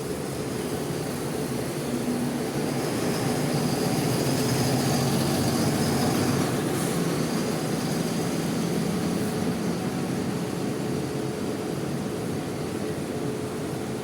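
A large diesel bus engine running, growing louder for a few seconds and then fading as a bus moves past, over a steady hiss.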